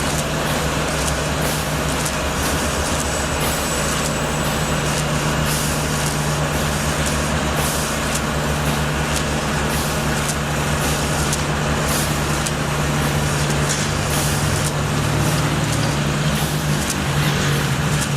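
Heavy engine running steadily at a constant speed, with many short sharp ticks and knocks over it.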